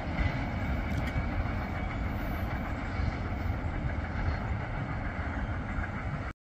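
Freight train cars rolling past: a steady rumble of steel wheels on the rails, cut off suddenly near the end.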